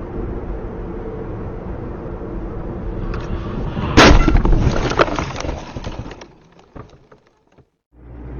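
Car crash recorded by a dash cam: steady road and engine noise, then about four seconds in a sudden loud collision with crunching metal and breaking glass that rattles on for a couple of seconds before dying away into a few scattered clicks.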